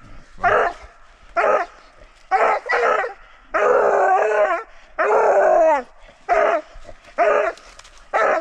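Treeing Walker coonhound barking repeatedly at a raccoon: about nine loud barks, mostly short chops, with two longer drawn-out bawls in the middle that fall in pitch at the end.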